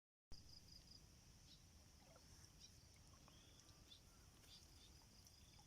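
Near silence: faint outdoor ambience with a steady high-pitched hum and a few faint short chirps.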